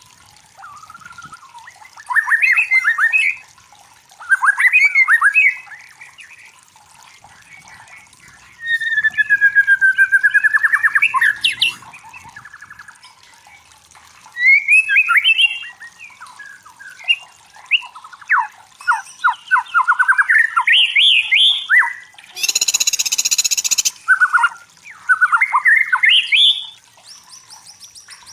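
White-rumped shama (murai batu) singing: loud, varied whistled and chattering phrases of one to two seconds each, with short pauses between them. About 22 seconds in there is a harsh, rasping note lasting about a second and a half.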